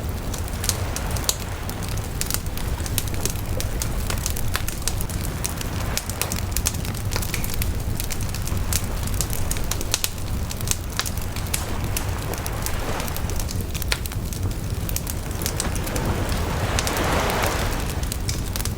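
Wood bonfire crackling, with many sharp pops and snaps over a steady low rumble of burning. Near the end the fire swells into a brief rushing hiss.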